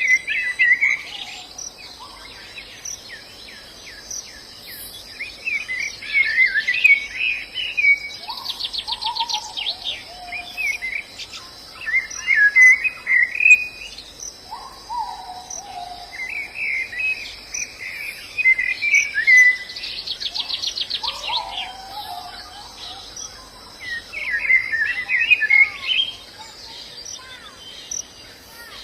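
White-eyes (pleci) singing: short bursts of high, chattering warbles every few seconds, with rapid trills at around 9 s and 20 s and a few lower falling whistles between. A steady insect drone runs underneath.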